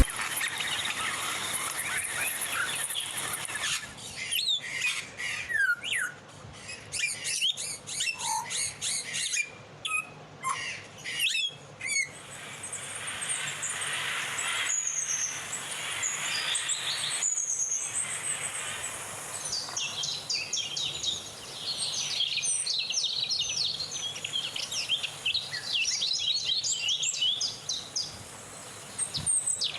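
Wild birds calling: short chirps and falling whistles, then a dense run of quick repeated chirps in the second half, over a steady faint background hiss.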